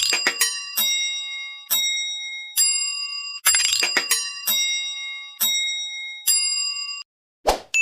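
Bell-like metallic chimes struck about once a second, each ringing on in several steady tones until the next strike, with a noisy whoosh at the start and again about three and a half seconds in. The ringing stops short near the end, and a short whoosh is followed by a new chime strike.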